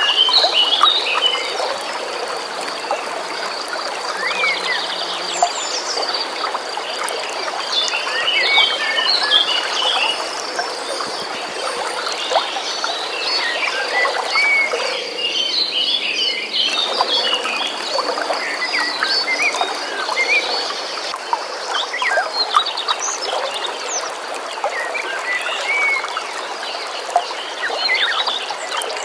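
Many birds chirping and singing in short calls over a steady rush of flowing stream water, with a continuous high trill throughout.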